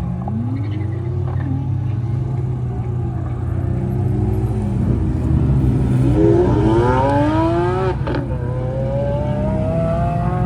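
Car engines running over a steady low drone. From about halfway through, one engine revs up, its pitch climbing in several rising sweeps. A sharp crack comes near the end, followed by another steadily rising engine note.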